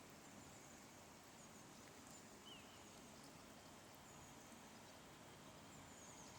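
Faint steady water noise with several faint, short, high bird chirps.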